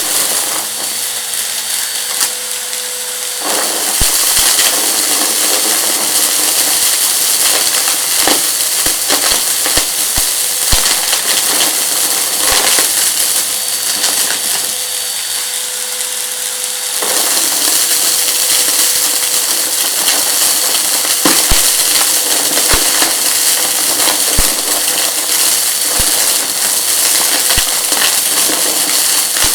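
Vacuum cleaner running on a rug, sucking up crunchy debris that crackles and clicks as it is pulled into the machine. The sound eases off for a few seconds near the start and again around the middle, then comes back up.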